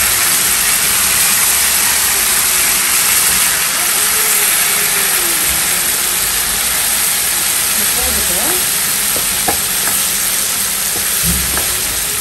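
Chopped tomatoes, onion and spice powders sizzling in hot oil in a non-stick pan while being stirred with a wooden spatula, with a few light knocks of the spatula near the end.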